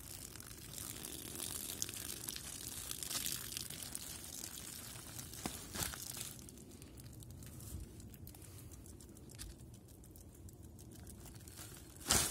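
Plastic camping tarp crinkling and rustling as it is handled, with scattered small crackles and one short, louder rustle near the end.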